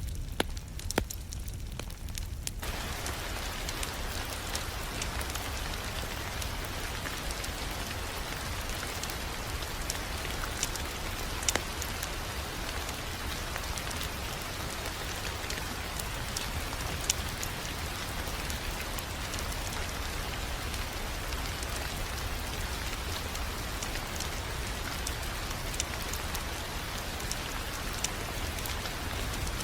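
Wood fire crackling in a fireplace: a steady hiss and low rumble with scattered sharp pops and snaps.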